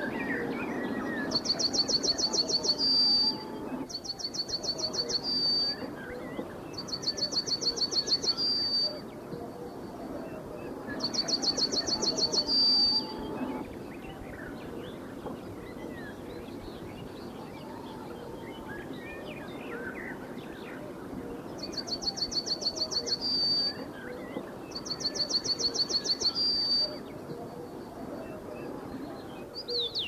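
Forest birds singing: one bird repeats a fast, high trilled song phrase about two seconds long, each ending in a short held note. It sings six of them with gaps between, the last two after a pause of about eight seconds. Fainter chirps and calls of other birds go on underneath.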